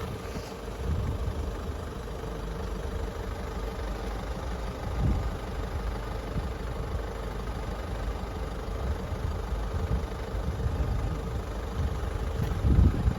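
A vehicle engine idling steadily: a low rumble with a faint steady hum, and a few brief low thumps.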